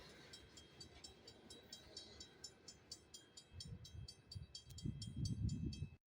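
Train running on the rails, with an even clicking of about four ticks a second and a low rumble that grows louder in the last two seconds before the sound cuts off.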